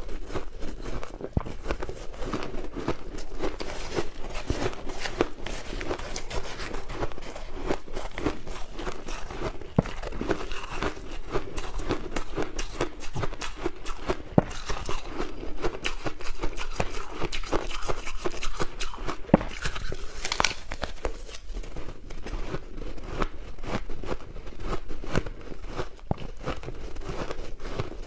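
Crushed ice being bitten and chewed close to the microphone: dense, irregular crunching and crackling, with one sharp crack about twenty seconds in.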